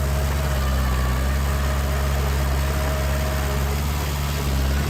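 Heavy diesel engine of earthmoving machinery running steadily with an even low hum.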